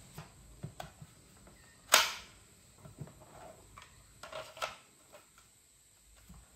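Scattered clicks and light knocks of wiring and battery connections being handled, with one sharp snap about two seconds in and a few more clicks near four and a half seconds.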